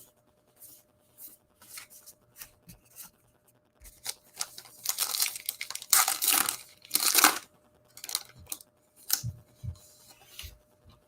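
A trading-card pack wrapper being torn open and crinkled in the hands, a run of rustles that grows loudest in the middle.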